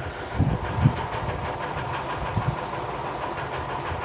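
Steady engine-like rumble and hum, with a couple of low thumps in the first second.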